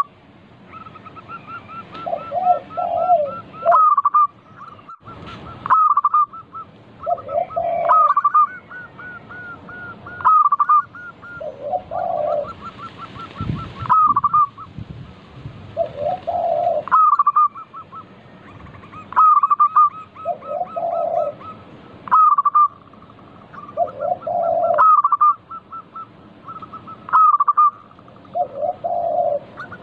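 Zebra doves (perkutut) singing: a phrase of quick short cooing notes, each ending in a louder note, repeating about every two and a half seconds, with a lower cooing phrase every four to five seconds. A brief hiss and a thump come about halfway through.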